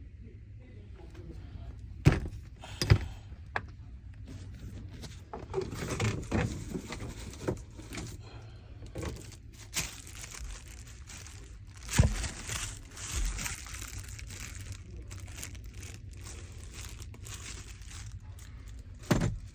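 Handling of Isuzu NPR brake master cylinder parts: several sharp knocks and clunks, with stretches of rustling and crinkling between them.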